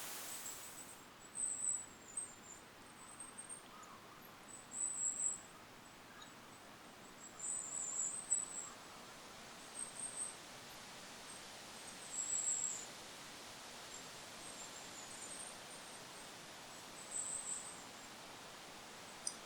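Goldcrest giving very high, thin calls in short bursts every second or two, over a steady hiss of wind noise.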